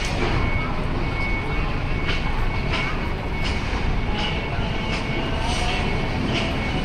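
Street traffic with a large vehicle's engine running steadily, and a thin high-pitched tone sounding on and off above it.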